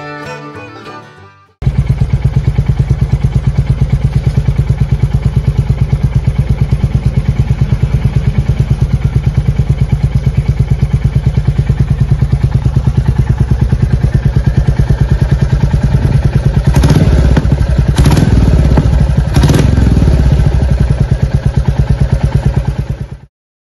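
Royal Enfield 350 single-cylinder engine idling through an aftermarket exhaust, with a loud, even pulsing beat. Near the end come three short throttle blips about a second and a half apart, before the sound cuts off suddenly.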